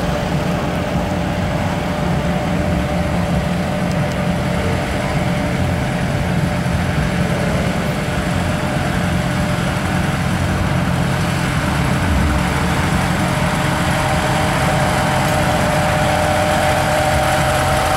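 Tractor engines running steadily at low speed, with a thin steady whine over the low rumble that steps up in pitch near the end.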